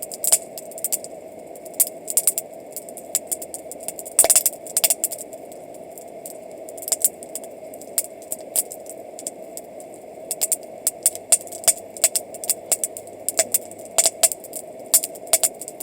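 Wood campfire crackling, with irregular sharp pops and a brief cluster of them about four seconds in, over a steady background hiss.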